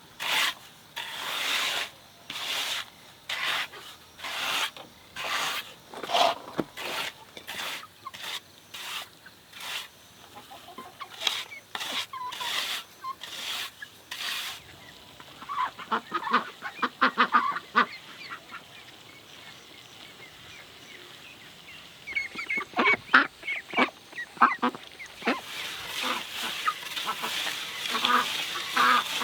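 Rhythmic rasping strokes, about two a second, like hand-sawing or rasping, stopping about halfway through. Poultry calling follows, in two spells with a quieter gap between them.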